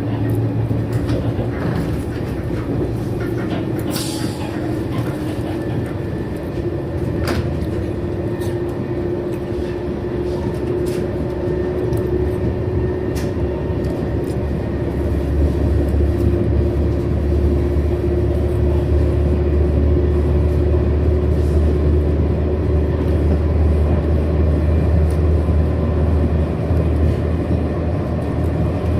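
TGV high-speed train running at speed while accelerating, heard from inside a passenger car: a steady low rumble with a constant hum, growing louder about halfway through, with a few faint clicks.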